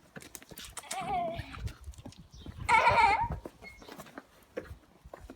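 Puppies whining and yelping in play: a short cry about a second in, then a louder, wavering cry near the middle, over scuffling and rustling.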